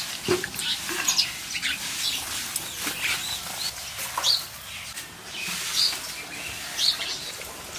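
Birds chirping: short, high calls scattered at irregular intervals.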